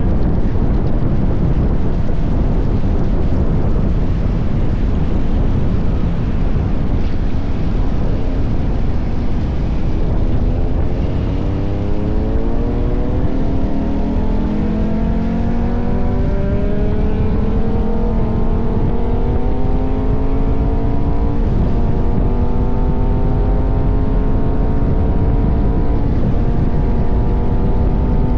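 KTM 1190 Adventure's V-twin engine under way, under heavy wind rumble on the microphone. About ten seconds in the engine note rises steadily as the bike accelerates, breaks at two gear changes, then holds a steady pitch at cruise.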